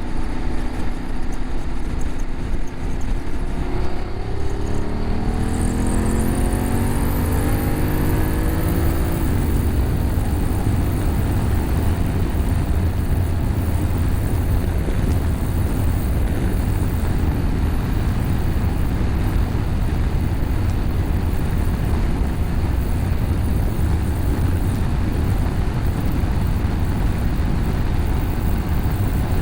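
BMW F850GS parallel-twin engine, breathing through an Akrapovic slip-on exhaust with the catalytic converter bypassed, pulling hard with its note rising through the revs between about four and nine seconds in. It then settles into a steady loud rush at cruising speed.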